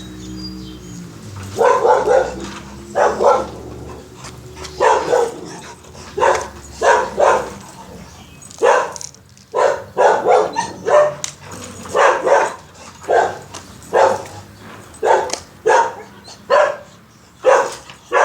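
A dog barking over and over, about once a second, starting a second or two in, some barks in quick pairs.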